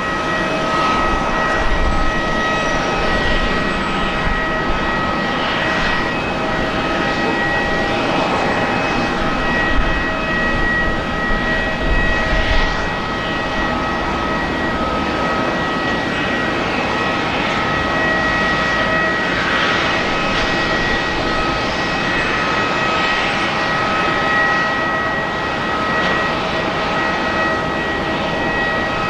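Airbus A350-941 jet engines (Rolls-Royce Trent XWB turbofans) running at low, steady power, a constant rushing noise carrying a steady high whine of several tones.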